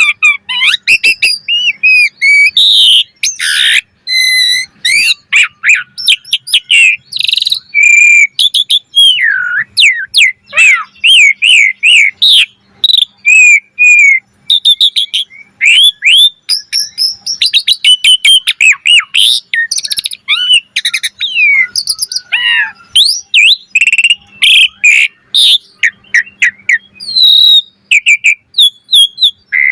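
Pied starling (jalak suren) singing in full voice, a fast, varied song of whistles, rising and falling glides, harsh buzzy notes and clicks with hardly a pause.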